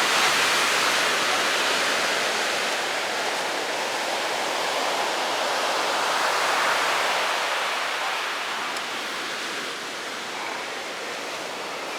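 Ocean surf: waves breaking and washing ashore in a steady rush, swelling about halfway through and easing off a little toward the end.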